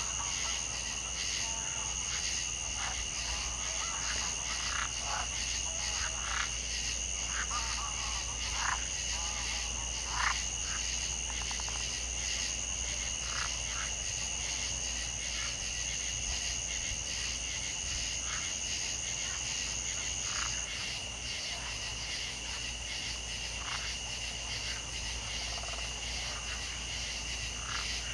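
A chorus of frogs croaking in short, repeated calls over a steady, high-pitched trilling. The highest trill stops about two-thirds of the way through, and the croaks thin out in the second half.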